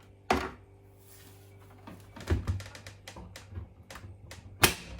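Clicks and knocks from handling a Hoover Link washing machine: a sharp knock just after the start, a cluster of smaller clicks around the middle, and another sharp knock near the end.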